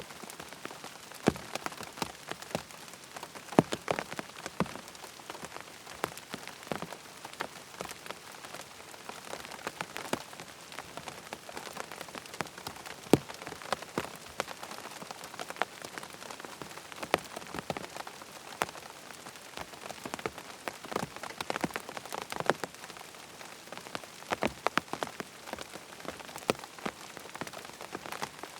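Rain falling on a tent: a steady wash of rainfall with many irregular, sharper single drops hitting the fabric.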